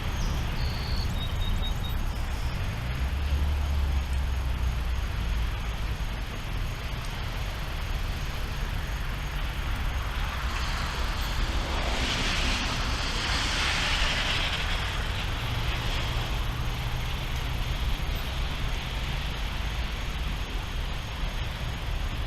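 Thunderstorm: a steady rushing hiss with low rumbling underneath, swelling louder for a few seconds about halfway through.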